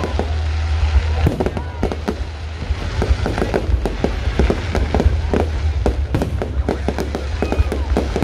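Aerial firework shells bursting in a rapid, dense run of bangs and crackles over a steady low rumble.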